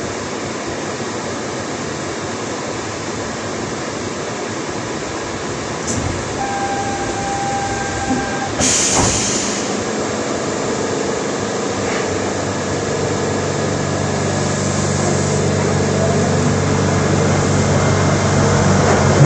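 Interior running noise of a New Shuttle 2000-series rubber-tyred guideway car: a steady roar from the tyres on the concrete guideway. A brief tone sounds partway through and a single sharp noise follows about halfway. A low drone builds in the second half, and a rising whine starts near the end as the noise grows louder.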